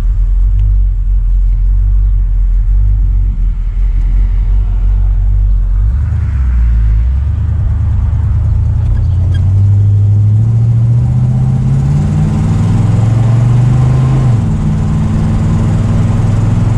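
1970 Chevrolet Monte Carlo's V8 engine heard from inside the cabin while driving: a steady low rumble, then the engine note climbs as the car accelerates from about six seconds in. The note dips briefly near the end and then holds steady.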